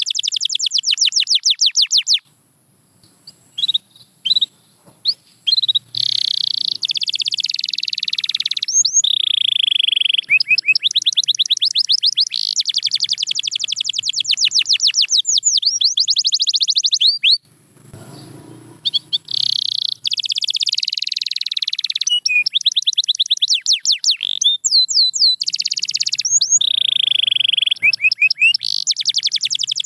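Domestic canary singing in long runs of very fast repeated trill notes mixed with held whistled tones, breaking off twice for a few seconds.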